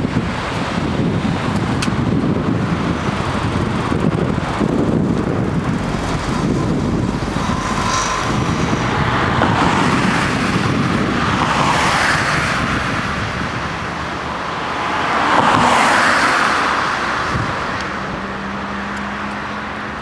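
Scania R500 truck's V8 diesel engine running with a deep, low rumble, swelling louder about fifteen seconds in, with road traffic noise around it.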